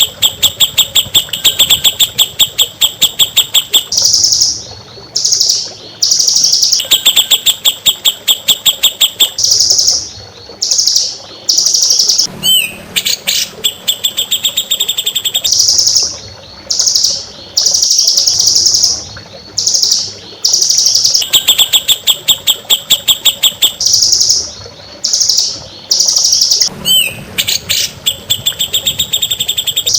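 Songbird singing loudly on a masteran recording for tutoring caged songbirds: rapid trills of about ten notes a second alternate with short held high notes. A rising whistle comes twice, near the middle and near the end. The phrases repeat as a loop.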